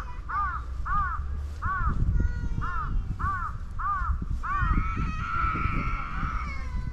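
An animal calling in a quick series of short, arching calls, about two a second, then one longer drawn-out call near the end.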